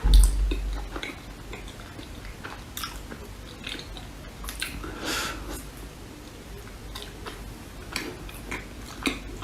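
Close-miked biting and chewing of a dessert, with scattered small clicks and smacks; a heavy low thump right at the start.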